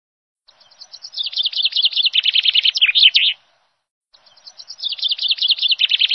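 A bird calling: a rapid run of chirping notes that builds in loudness over about three seconds, given twice with a short pause, the second run starting about four seconds in.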